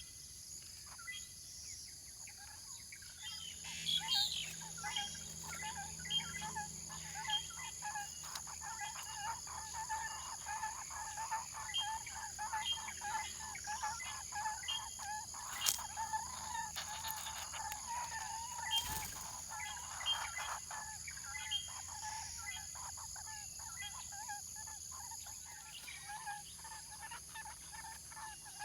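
Bird calls: a fast run of repeated notes over much of the middle of the stretch, with scattered higher chirps, over a steady high-pitched insect drone.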